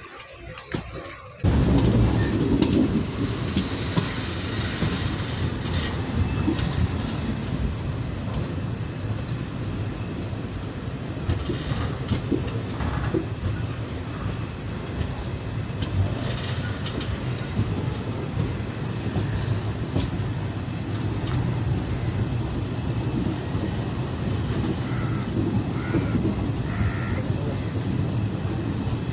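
Passenger train running, heard from an open coach doorway: a steady rumble of wheels on rails, cutting in suddenly about a second and a half in.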